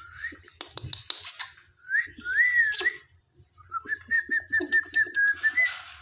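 Cockatiel whistling: a few short rising whistles, then one long warbling whistle. Sharp clicks and taps are scattered through the first half.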